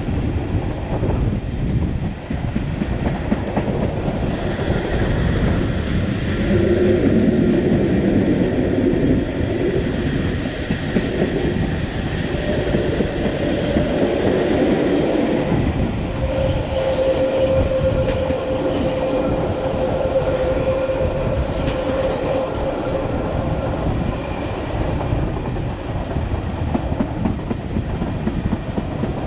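Matterhorn Gotthard Bahn narrow-gauge train, hauled by an HGe 4/4 locomotive, running with a steady rumble and rail clatter; a steady high wheel squeal sets in past the middle and lasts several seconds.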